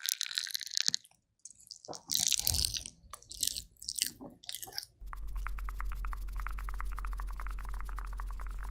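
Close-miked ear-cleaning ASMR sounds: an ear pick scratching and crackling in short bursts with brief silent gaps. About five seconds in this changes abruptly to a steady fine crackling over a low hum.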